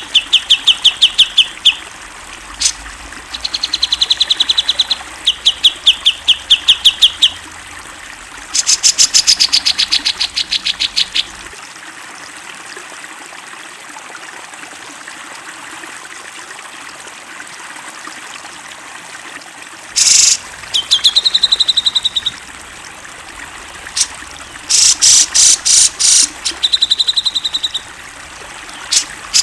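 Cucak jenggot (grey-cheeked bulbul) singing in bursts of rapid, evenly repeated notes, some on a steady pitch and some higher and sweeping, with pauses between phrases and one long gap of about eight seconds midway. A steady trickle of running water sounds underneath.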